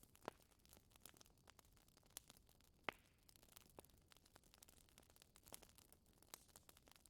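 Wood fire crackling faintly in a fireplace: irregular small snaps and pops, with two louder pops, one just after the start and one about three seconds in.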